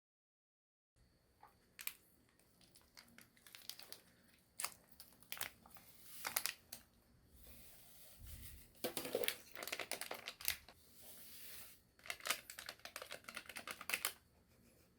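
Packaging crinkling and tearing: irregular runs of sharp crackles and rustles with short pauses, and a dull thud about halfway through.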